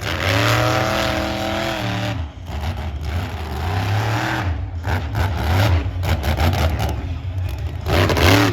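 Monster truck engine revving hard, the throttle opened and eased off several times: a long run in the first two seconds, a brief drop, then repeated surges.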